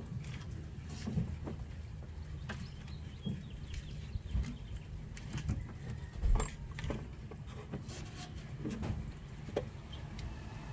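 Scattered light clicks, clinks and knocks of hands and tools working on connectors in a car's engine bay, with a louder knock about six seconds in, over a steady low rumble.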